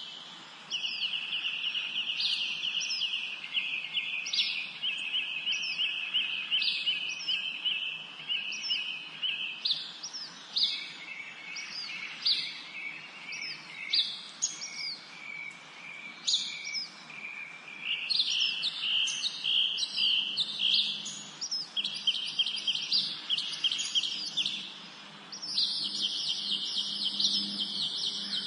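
Songbirds singing in a forest chorus: long, rapid, buzzy trills overlap with many short, high chirps that fall in pitch, repeating throughout.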